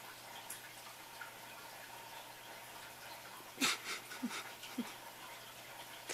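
Quiet room tone with a faint steady hum. A little past the middle come three short, soft sounds about half a second apart, the first the loudest.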